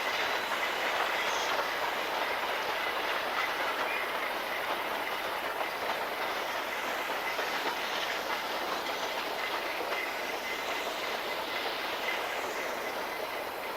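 Narrow-gauge train rolling past on jointed track, its wheels clattering over the rail with a faint, steady high squeal; the sound slowly eases off toward the end.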